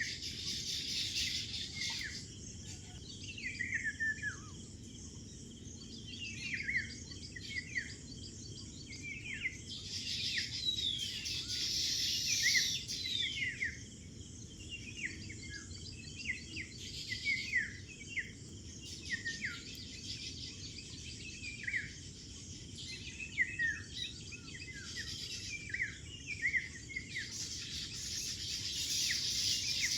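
Small birds calling: many short, quick falling chirps, with louder bursts of dense high chatter coming and going every several seconds.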